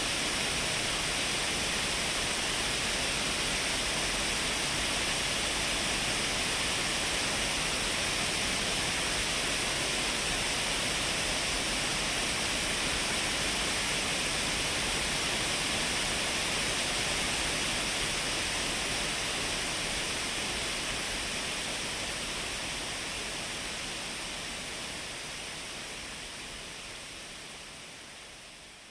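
Shiraito Falls waterfall: a steady, dense rush of falling water, fading out gradually over the last ten seconds or so.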